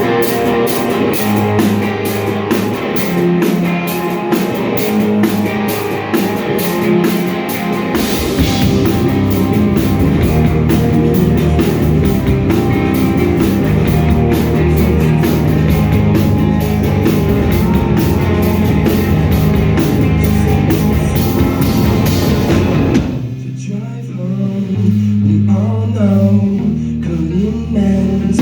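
Live rock band playing loudly: drum kit with steady cymbal strokes, electric guitars and bass, with singing. About 23 seconds in the sound suddenly thins to a few low notes, then the full band comes back in.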